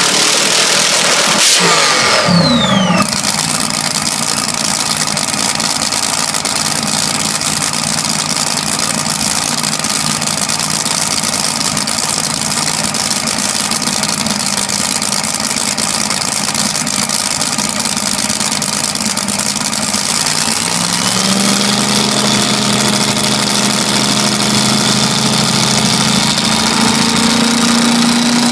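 Hot rod engine idling loudly and steadily, with a high whine falling in pitch in the first few seconds. About two-thirds of the way through the engine speed rises a little and holds there.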